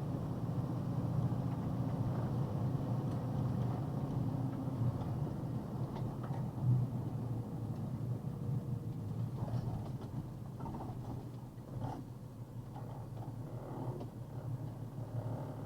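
Box truck driving, heard from a dashcam inside the cab: a steady low engine and road rumble, with one brief louder thump about seven seconds in.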